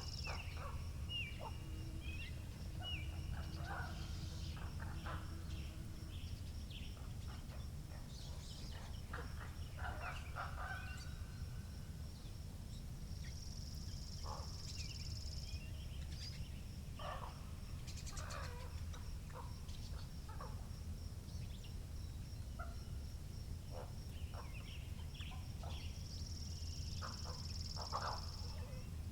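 Spring countryside ambience: small birds chirping and calling over a steady low rumble of wind. A high bird trill swells twice, about halfway through and near the end.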